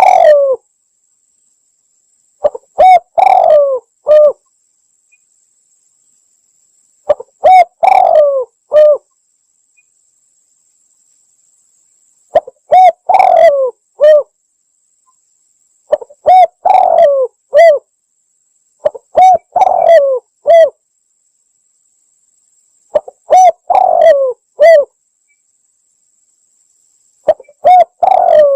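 Spotted dove (tekukur) cooing, played as a lure call: the same phrase of several low coos repeats about every four seconds, seven times, loud and slightly distorted, with dead silence between phrases.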